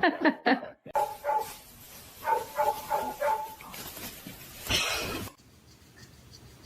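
A dog giving short, repeated yips and barks, in quick groups.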